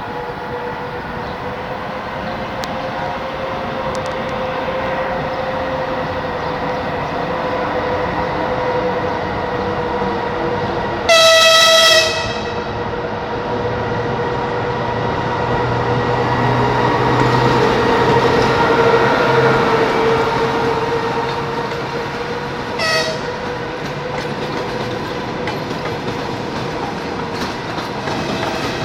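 EP2K electric locomotive pulling a long-distance passenger train out of a station, its running noise a steady rumble with a steady hum and some clickety-clack of wheels on rail joints. The horn gives one loud blast of about a second about eleven seconds in, and a short toot later.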